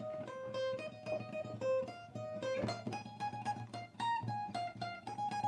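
Acoustic guitar picked note by note in an instrumental passage between sung lines, a repeating melodic figure that moves up in pitch about halfway through.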